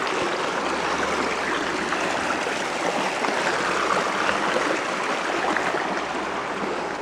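Forest stream flowing, a steady rush of water.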